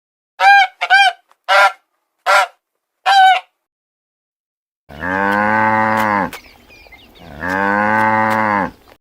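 Animal calls: five short, high calls in quick succession, then two long, low calls of more than a second each.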